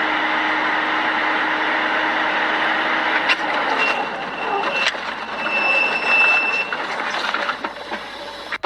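Loud, steady vehicle and road noise that starts abruptly, with a few sharp clicks part-way through.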